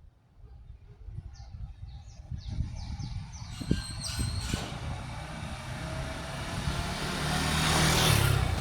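A few short high chirps from a bird in the first half, then a passing vehicle's rushing noise and low rumble building to its loudest just before the end.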